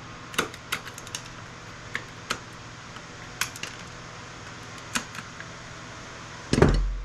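Hard clicks and clacks of circuit boards and small parts being handled and dropped while being sorted, scattered irregularly, then one heavy thud with a deep boom near the end, over a steady low hum.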